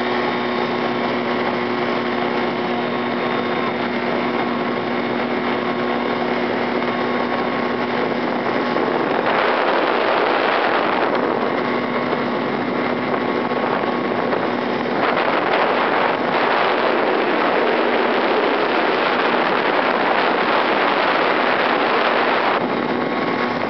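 Powered parachute's engine and propeller running steadily, with a louder rushing noise over it twice, for about two seconds some nine seconds in and again for about seven seconds from the middle on.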